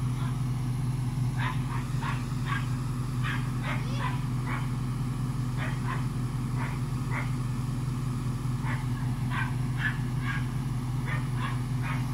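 A dog barking in short, sharp yips again and again, in irregular clusters, over the steady hum of a 2007 Ram 1500 pickup's engine running while the truck sits stuck in mud.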